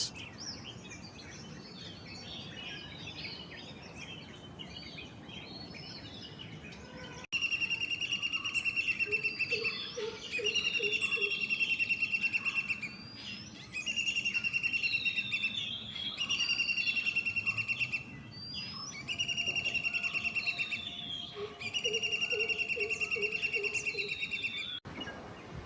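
Wild birds calling. First comes a faint chorus of scattered chirps. About seven seconds in, a much louder bird song starts abruptly and repeats in phrases of about two seconds, each a steady high note with quick trills above it, with a few low pulsing notes between phrases.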